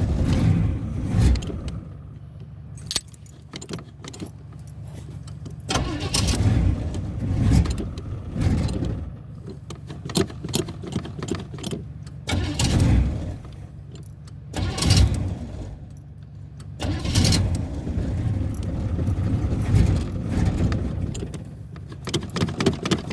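1983 Pontiac Firebird engine being cranked over again and again on a cold start, sputtering in short bursts but not staying running. It is hard-starting in the cold, which the owner calls wicked cold-blooded.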